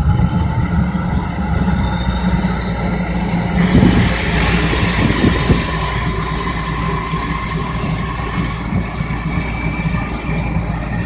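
Cessna Caravan's Pratt & Whitney PT6A turboprop engine spooling up during start: a rising turbine whine, joined about four seconds in by a louder, higher whine that keeps climbing slowly.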